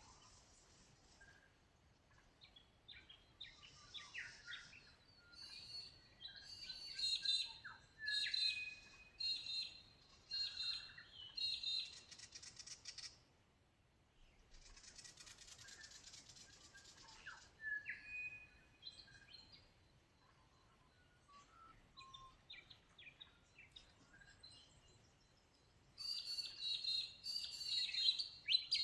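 Several Australian birds calling and singing in a morning chorus: short chirps, quick repeated notes and trills, with a quieter stretch midway and a denser burst of song near the end.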